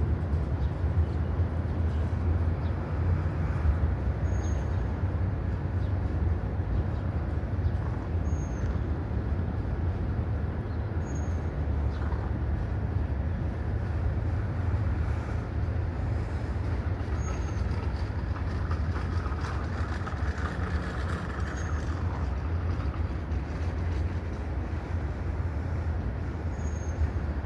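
Steady low rumble with a broad hiss, the background noise of an outdoor recording.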